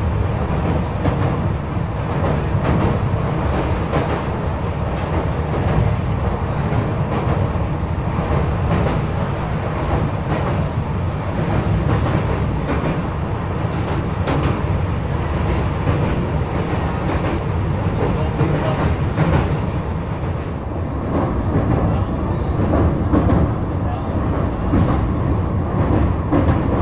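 Passenger train running over a steel truss bridge: a steady deep rumble of wheels on the rails, with scattered faint clicks.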